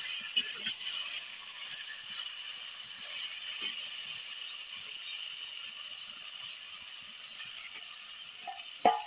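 Chicken pieces and spice paste sizzling in a clay pot, with a metal spatula scraping and stirring through them in small irregular clicks. A sharp knock comes near the end.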